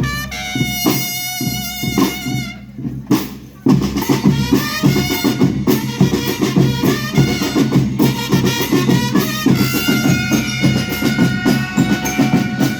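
School rhythm band playing: wind instruments hold a wavering melody over steady marching drums. Near the middle the level drops briefly, then the full band comes back in loudly.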